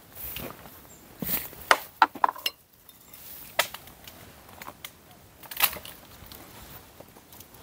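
Dry, hard wood being chopped and broken: irregular sharp cracks and knocks, several close together around one to two seconds in and single ones later.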